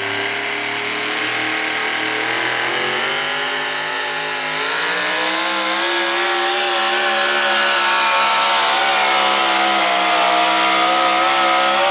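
Modified pulling truck's engine running at full throttle under load down the track, its pitch climbing steadily from about four seconds in.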